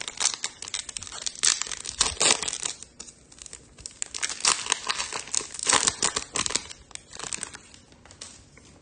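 Foil trading-card pack wrapper being torn open and crinkled, an irregular run of crackles and rustles that dies away near the end.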